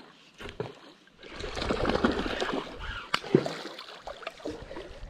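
Water splashing and churning at the surface as a small hooked barbel (sharptooth catfish) thrashes near the boat, with a couple of sharp knocks about three seconds in. It starts about a second in and eases off after a couple of seconds.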